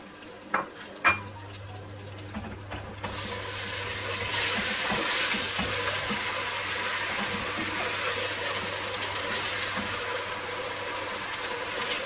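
Onion paste hitting hot oil in a cooking pot and sizzling: a couple of knocks against the pot, then about three seconds in a loud, hissing sizzle that swells and keeps going as the paste starts to fry.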